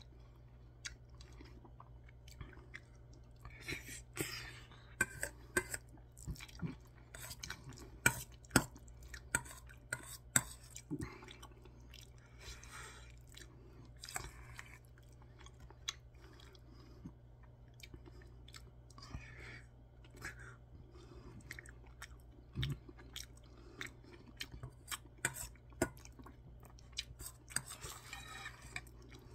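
Close-up chewing and mouth sounds of a person eating curry rice mixed with spicy canned tuna, with many sharp clicks and smacks scattered throughout over a faint steady low hum.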